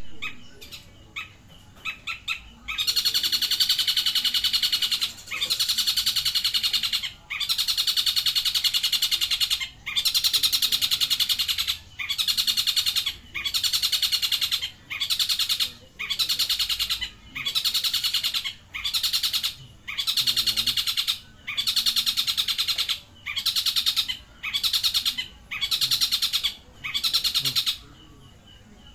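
Long-tailed shrike (cendet) singing a kingfisher mimicry: after a few short notes, a loud, rapid trill repeated in about fifteen bursts of one to two seconds each, with short pauses between them.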